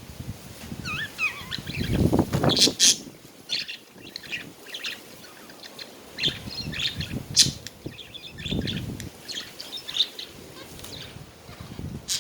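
Budgerigars chattering: quick warbling glides and sharp chirps, many short calls overlapping. Several low rumbling bursts come in between the calls.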